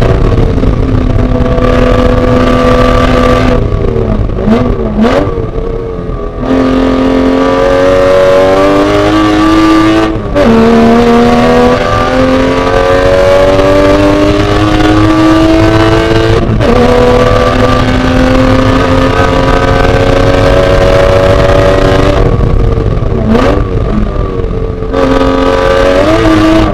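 Porsche Boxster race car's flat-six engine under hard acceleration, its pitch climbing through the gears with two quick upshifts, about ten and sixteen seconds in. Twice, about five seconds in and again near the end, the engine drops off under braking, with quick throttle blips on the downshifts.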